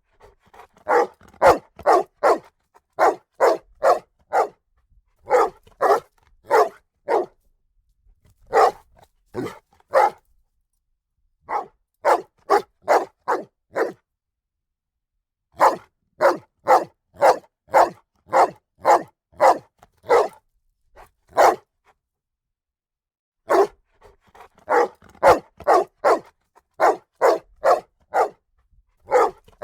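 A dog barking repeatedly, in quick runs of several barks separated by short pauses.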